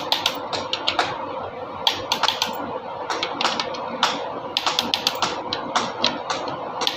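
Irregular sharp clicks and taps of hand tools and metal engine parts being handled during an engine overhaul, several a second with no steady rhythm, over a steady hum.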